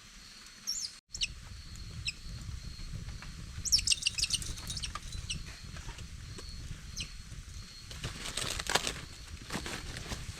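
Forest ambience: short high bird chirps, with a quick cluster of calls about four seconds in, over a low steady rumble, and a run of rustling crackles near the end.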